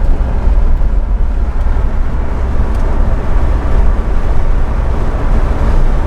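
Manual sports car driving along, with a steady low rumble of engine and road noise heard from inside the cabin.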